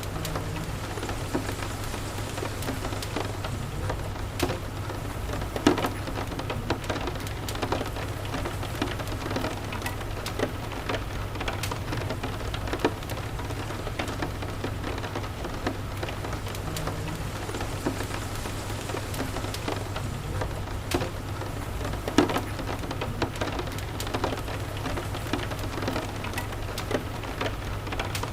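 Steady rain ambience with a wood fire crackling in a fireplace: scattered sharp pops over an even hiss and a steady low rumble, the loudest pops about six seconds in and again about twenty-two seconds in.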